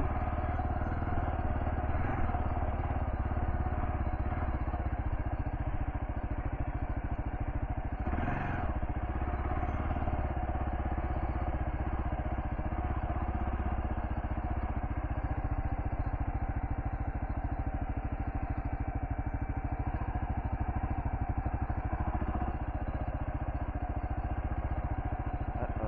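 Kawasaki KLR650 single-cylinder engine running steadily at low speed while the bike is ridden off road, with a brief louder noise about eight seconds in.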